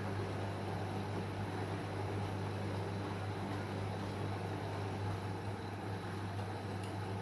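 Washing machine running, a steady low hum under an even whooshing noise.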